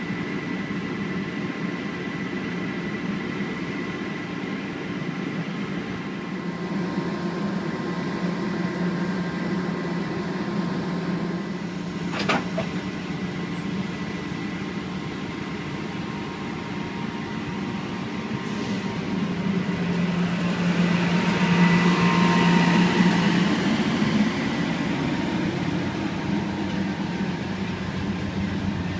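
Amtrak GE Genesis diesel locomotive running at a standstill, a steady drone with fixed whining tones. A single sharp click comes about twelve seconds in, and the engine sound swells louder for a few seconds past the middle before settling again.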